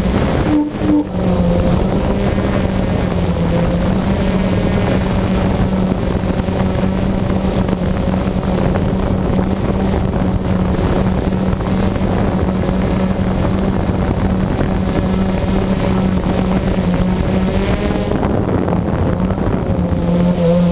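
Blade 350QX quadcopter's electric motors and propellers buzzing at a steady pitch in flight, with wind rushing over the microphone. The buzz dips briefly about half a second in.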